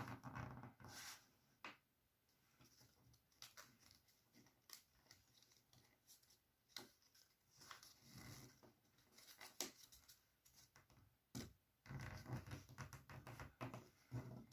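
Faint rustling and crinkling of a sheet of paper being folded and creased by hand, with scattered small clicks and taps, busiest near the start and again near the end.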